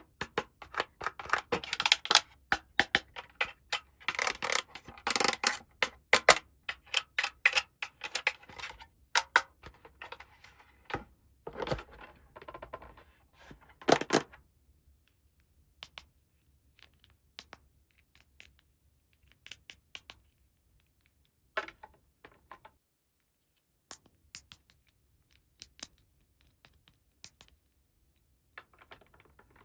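Small plastic toy pieces and packaging being handled: a busy run of clicks, taps and crinkling for about the first half, then only occasional single clicks.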